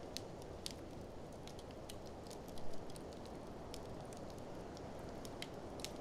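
Wood fire crackling with irregular sharp pops, a small cluster of louder pops about two and a half seconds in, over the steady rushing noise of blizzard wind.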